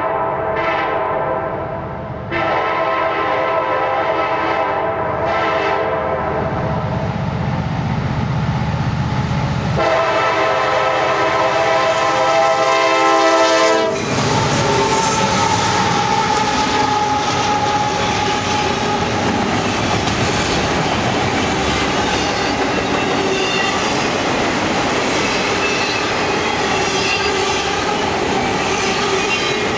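A CSX SD70MACe locomotive's air horn blows for the grade crossing as the train approaches, with short breaks about two and ten seconds in, over the diesel's rumble. About fourteen seconds in the locomotives pass close, and then autorack cars roll by with steady wheel clatter on the rails.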